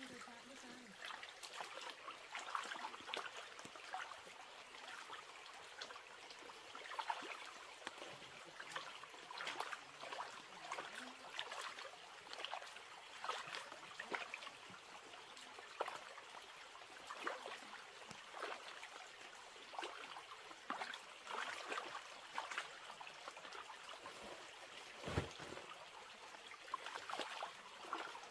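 Water trickling and splashing softly, with many small irregular splashes.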